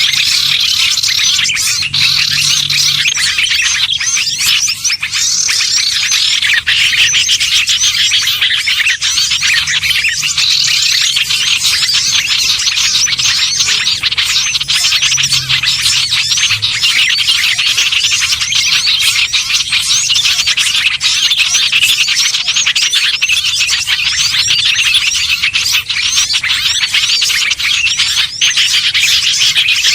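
A dense, unbroken chorus of many small songbirds chirping and twittering at once, high-pitched and rapid: a mixed small-bird lure (pikat) call track played to draw in small birds.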